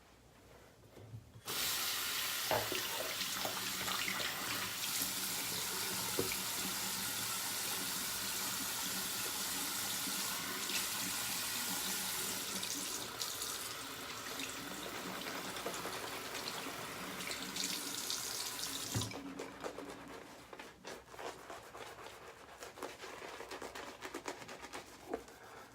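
Tap running into a sink, starting abruptly about a second and a half in and shutting off after about seventeen seconds. After that come faint, irregular scratchy clicks.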